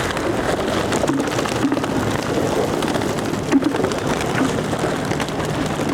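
Dense, irregular pattering and splashing of water, with a low steady hum underneath.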